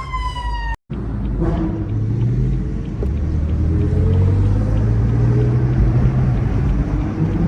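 A siren wailing downward in pitch for under a second, cut off abruptly, followed by a car engine running with a low rumble, its pitch climbing slowly over a few seconds and then easing.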